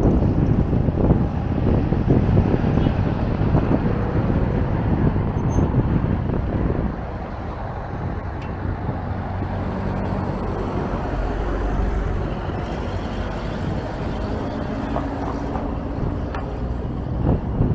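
Street traffic going by with strong wind buffeting the microphone; the gusting eases about seven seconds in, leaving a steadier traffic hum with a vehicle engine running.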